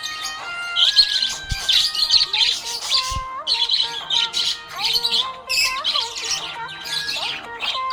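Budgerigar chirping and warbling in quick, irregular bursts, over background music with a stepped melody.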